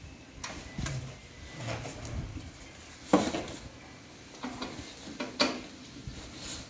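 A series of light clinks and knocks of small hard objects being handled and set down, with the loudest knock about three seconds in.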